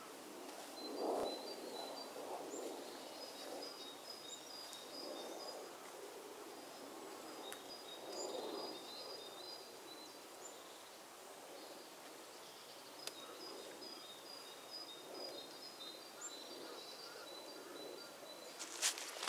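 Woodland ambience: a small songbird singing three long phrases of quick, high, repeated notes over a soft low background noise that swells and fades. Footsteps begin just before the end.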